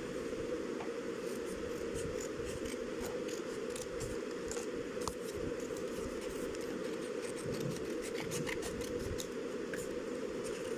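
A sheet of paper being handled by hand: scattered crisp crackles and rustles over a steady low background hum.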